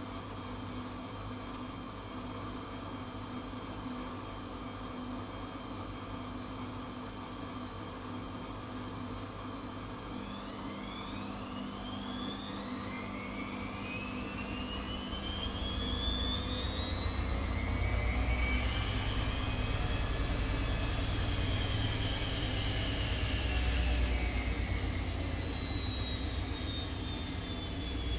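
Atlant 70C1010 washing machine's drum motor speeding up into a spin: a steady hum, then about ten seconds in a whine that rises in pitch, joined by a growing deep rumble as the drum gets up to speed, with the whine easing down slightly near the end.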